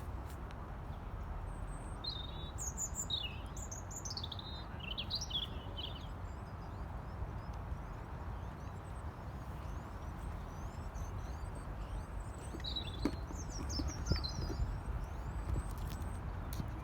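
Birds chirping in two short bouts of high, quick calls, over a steady low rumble of outdoor background noise.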